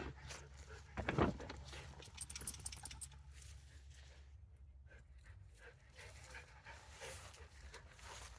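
A dog panting, with a brief louder rustle or knock about a second in.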